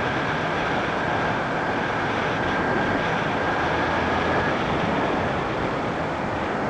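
Motorcycle on the move, heard as a steady rush of wind and road noise over the microphone, with a faint steady whine that fades out about two-thirds of the way through.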